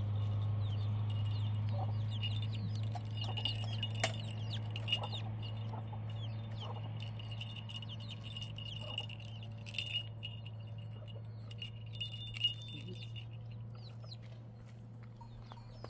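Many short, quick bird chirps over a steady low hum, busiest through the middle and thinning out toward the end, with a few light clicks.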